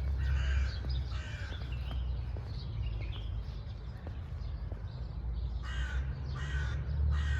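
Crows cawing: two harsh caws near the start and a run of three near the end, over a steady low rumble.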